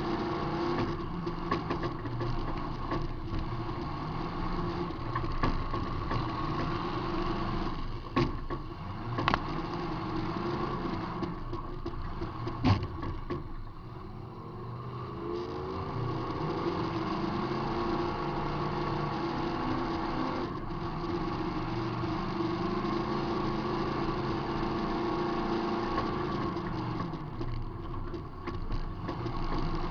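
Demolition derby car's engine running and revving, heard from inside the car, with a few sharp crash impacts around the middle. After the last impact the engine dips and picks back up with a rising pitch.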